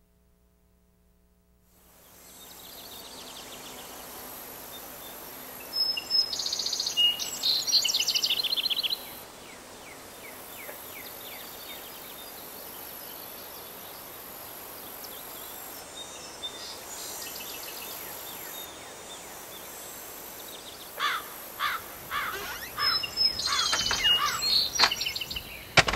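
Steady outdoor background hiss that begins about two seconds in, with a songbird singing a quick, chirping phrase twice, first a quarter of the way through and again near the end.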